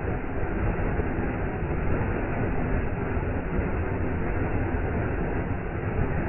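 Waterfall: water falling and splashing in a steady, low, rushing roar.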